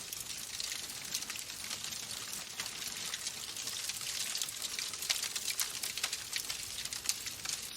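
Wood fire crackling in a fireplace: a steady hiss with frequent small pops and snaps.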